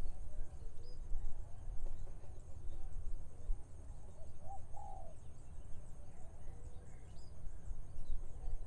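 Rice-field morning ambience: a steady low rumble of wind and a continuous high insect drone, with a few short bird chirps and one brief lower bird call about halfway through.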